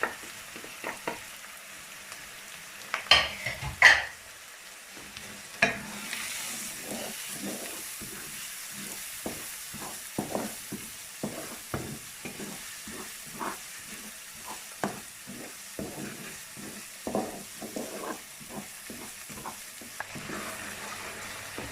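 Ground spices and onion-garlic masala sizzling in hot oil in a pan while a spoon stirs and scrapes it, in a run of short strokes. A few sharp knocks of the spoon against the pan come about three to four seconds in.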